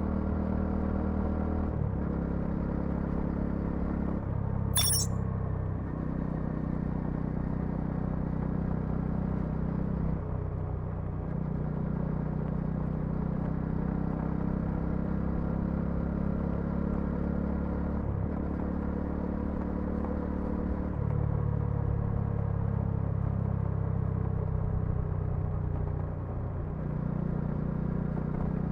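Bajaj Dominar 400's single-cylinder engine and exhaust under way, its pitch stepping up and down every few seconds as the rider works the throttle and gears. A single sharp click about five seconds in.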